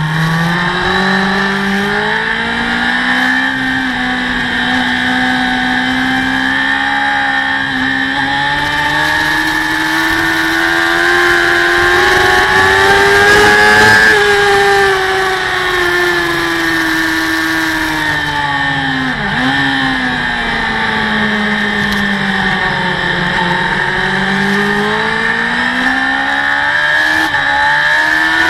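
Onboard sound of a superbike racing motorcycle's engine at racing speed, with wind rushing past. The engine note climbs slowly to a peak about halfway through, falls away with a brief dip about two-thirds in, then climbs again near the end.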